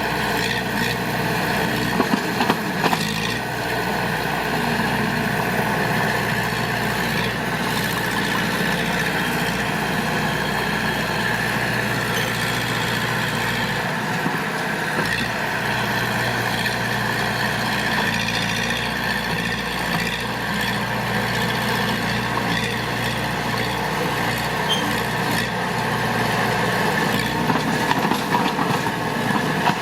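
Heavy diesel engine of earthmoving machinery running steadily under load, with a few brief clanks about two seconds in.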